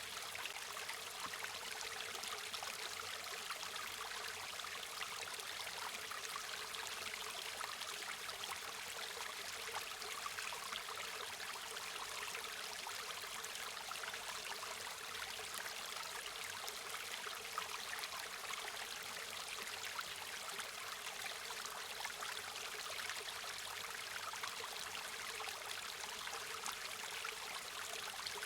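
River water running over stones, a steady trickling and babbling rush, mostly light and high with little low rumble.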